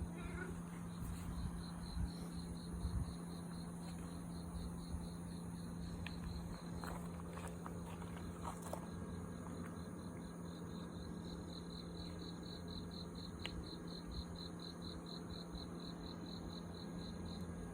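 An insect trilling: a high, rapid train of even pulses that fades in the middle and comes back stronger later, over a steady low hum.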